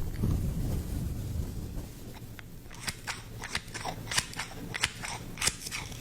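Wooden scissors snipping in a run of sharp clicks, close to the microphone, as in a simulated haircut. A low rustle of handling comes first.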